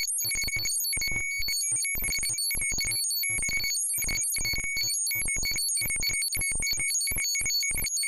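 Homemade electronic robot-computer sound effect: a steady high electronic tone with shrill overtones, broken up by rapid, irregular clicks and bleeps in a continuous sci-fi data-processing chatter.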